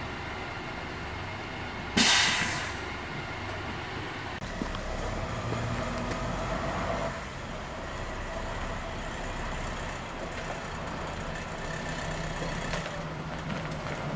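Scania CR112 bus with its diesel engine running steadily. About two seconds in comes one short, loud hiss of compressed air from the air brake system.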